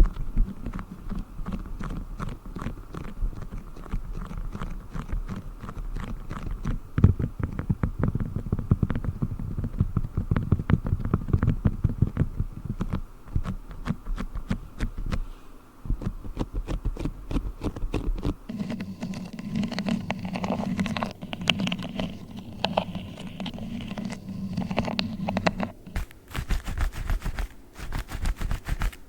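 A sheet of beeswax being handled and crinkled close to the microphone: a dense run of quick, small crackles and scrapes. About 26 seconds in the texture changes to the sharper rubbing and snapping of black gloves being handled.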